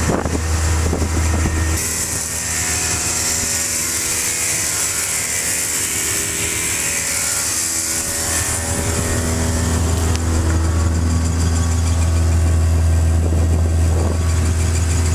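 Toyota Starlet's swapped 4A-GE four-cylinder engine running steadily at a high idle, over 1,000 rpm, with a higher hiss through the middle part. Little of the sound comes out of the tailpipe, which the owners take for a badly damaged exhaust.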